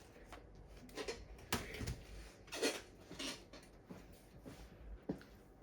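Irregular clicks and knocks of a laptop motherboard and parts being handled and fitted back into the plastic laptop case, the loudest knocks about a second and a half and two and a half seconds in.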